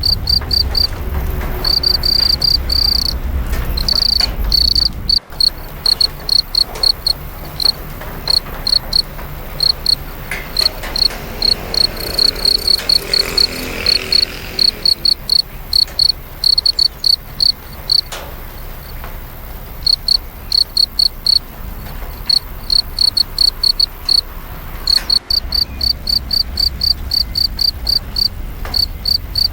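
Cricket chirping: short, high-pitched chirps repeating about two to three times a second in runs broken by brief pauses, over a steady background hiss.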